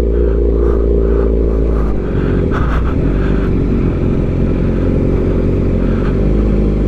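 Suzuki GSX-R750 inline-four with aftermarket headers and an M4 slip-on exhaust running steadily under way; the engine note shifts slightly about two seconds in.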